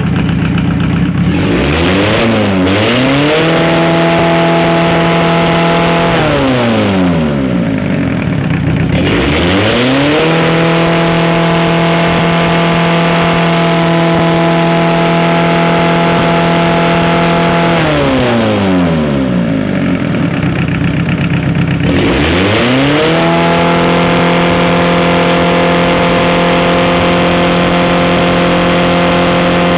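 Mazda 1.7-litre diesel engine revved up three times, each time held at high revs for several seconds, dropping back twice in between. The engine is worn and blows oil through blow-by.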